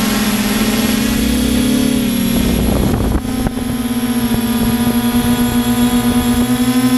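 RC quadcopter's electric motors and propellers whining steadily. About three seconds in, the pitch shifts and wavers with a brief dip as the motor speeds change, then settles into a slightly pulsing drone.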